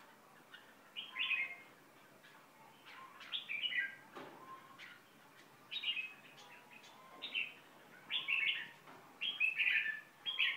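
A bird chirping in short repeated phrases: a quick cluster of high chirps every second or two.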